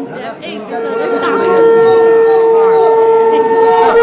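Conch shell (shankha) blown in a long steady note; it breaks off briefly just after the start, then comes back and is held, with voices over it.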